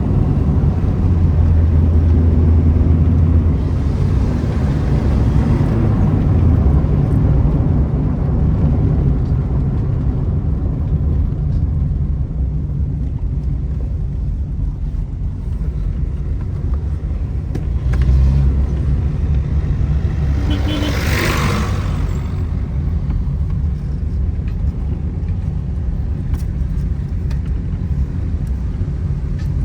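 Renault car's loud exhaust rumbling steadily as the engine runs, swelling a little twice. A brief rushing noise rises and fades about twenty seconds in.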